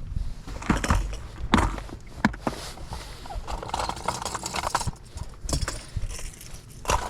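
Irregular knocks and clunks, with rustling a little after the middle.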